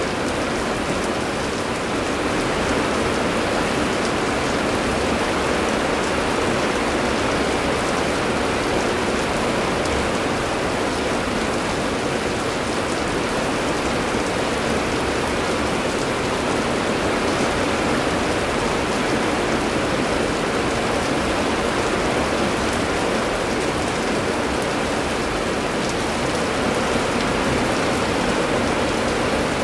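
Heavy rain pouring steadily, a dense, even hiss with no breaks or thunderclaps.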